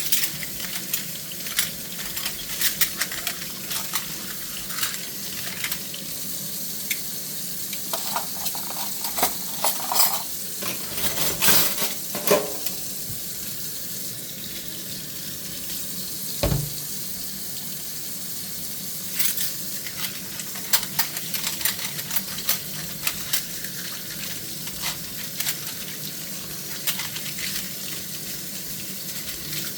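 Hand-washing dishes in a kitchen sink: a steady hiss of running tap water with frequent light clinks and taps of dishes and cutlery, and one dull knock about halfway through.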